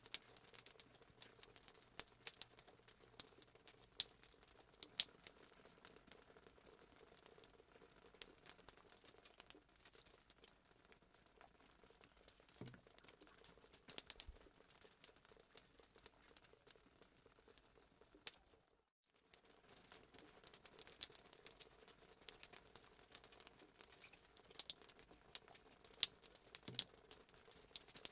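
Fireplace sound effect: a wood fire crackling, with a quiet steady rumble under irregular sharp pops and snaps. It cuts out completely for a split second about two-thirds of the way through.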